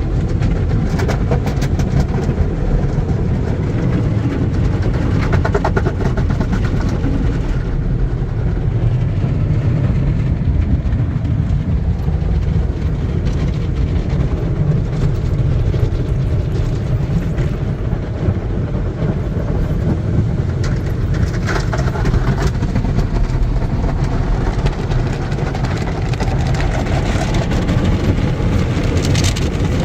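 Automatic tunnel car wash heard from inside the car's cabin: a steady, loud rumble of the washing machines and water beating on the body, with brief hissing, rattling patches now and then.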